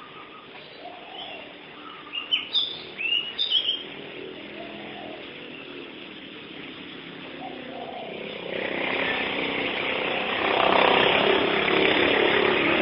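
Birds chirping: a few short, sharp calls that fall in pitch, between about two and four seconds in. From about eight seconds a louder, even rushing noise builds and holds.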